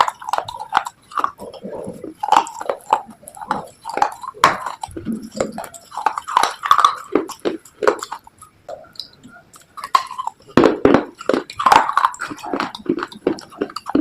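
Close-miked crunching and chewing of earthy slate pieces: many sharp crunches in quick succession, with a quieter pause about eight seconds in.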